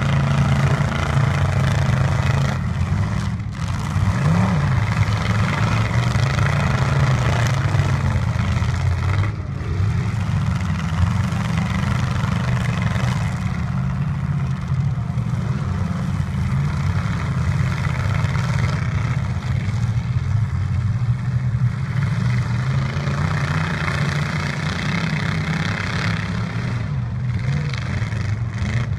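Demolition derby pickup truck engines running and revving continuously.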